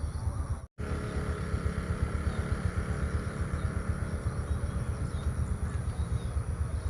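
Outdoor field recording dominated by a steady, flickering low rumble, with faint bird chirps above it. The sound cuts out completely for a moment just under a second in.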